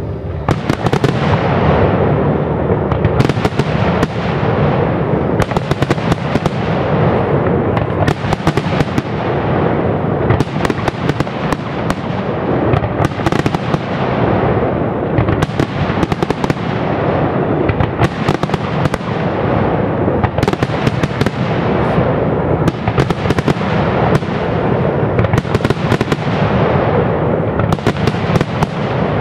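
Aerial fireworks display: loud shell bursts bang in quick succession with hardly a pause, each trailing off, over a continuous low rumble.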